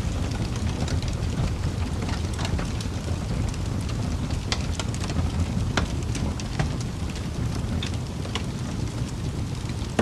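Wood fire burning in a fireplace: a steady low rumble of flames with irregular crackles and pops throughout, and a few sharper pops in the middle and near the end.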